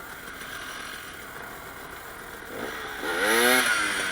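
Dirt bike engine running steadily in the background, then revved hard about three seconds in, with a second rev near the end, its pitch climbing and falling with each blip of the throttle.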